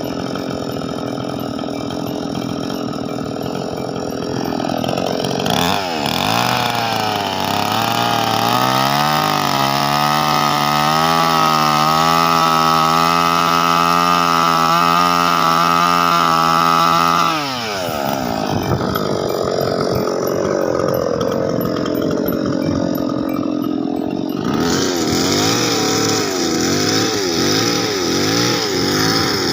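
Small engine running, revving up over a few seconds, held at high speed, then dropping back about halfway through before running unevenly again.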